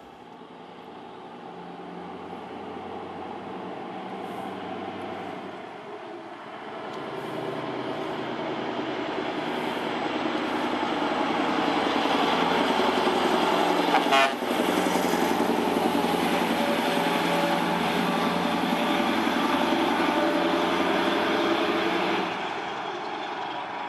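Scania R500 V8 diesel truck engine under way, its sound building steadily louder for about twelve seconds with a brief sharp sound at the loudest point. It stays loud, then drops off shortly before the end.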